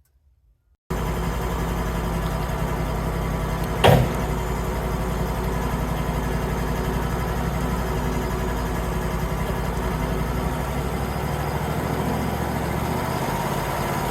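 Wood-Mizer LT35 portable bandsaw mill's engine running steadily. It cuts in abruptly just under a second in, and there is one sharp knock about three seconds later.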